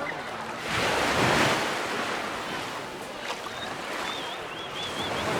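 Sea waves washing in, with a louder surge of surf about a second in, and wind on the microphone. A faint high warble comes in near the end.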